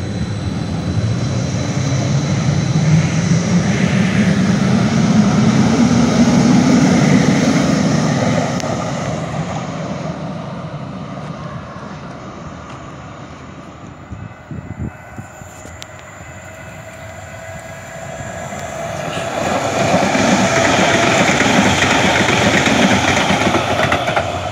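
Train passing close by, loud, with a low hum that rises slightly as it swells, then fading away about halfway through. A second loud pass swells up again a few seconds before the end.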